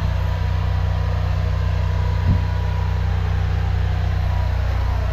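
High-pressure drain jetter's engine and pump running steadily while the nozzle blasts roots in a sewer pipe, with a steady thin whine above the engine note. A single brief thump about two seconds in.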